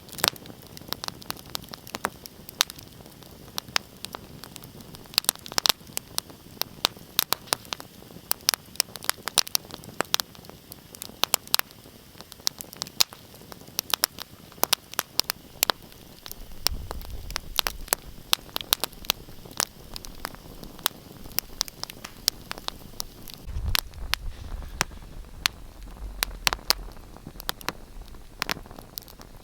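Wood fire crackling in a fireplace: a steady stream of irregular sharp pops and snaps over a soft hiss. A low rumble comes in underneath about two-thirds of the way through.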